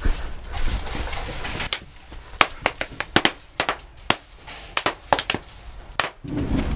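Airsoft guns firing, about fifteen sharp, irregularly spaced cracks, some in quick pairs, starting about a second and a half in.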